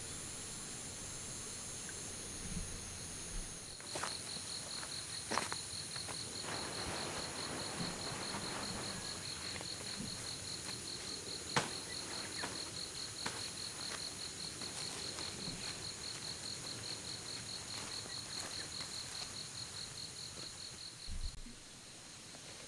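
Insects chirping: a fast, even pulsing trill starts about four seconds in and stops shortly before the end, over a steady high-pitched insect drone. A few faint clicks sound in between.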